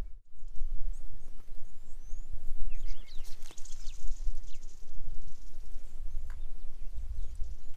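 Wild birds calling in the bush with short, quick chirps and whistles, a cluster about three seconds in and more near the end, over a steady low rumble on the microphone.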